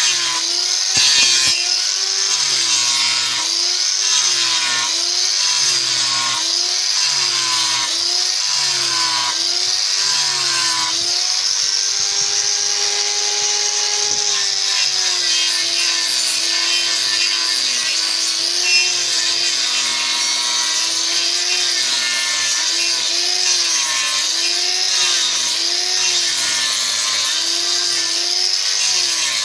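Electric power tool cutting into wood in repeated strokes. Its motor pitch dips under load with each pass, roughly once a second, and rises and holds steady for a couple of seconds when it runs free about halfway through.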